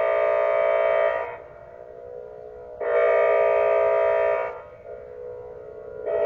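Outdoor tornado warning siren sounding, a steady-pitched wail that comes and goes in loud blasts about every three seconds with a fainter tone between them.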